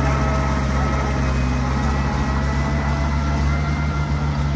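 Diesel engine of heavy earthmoving machinery running steadily with a deep, even drone, and faint thin whining tones above it.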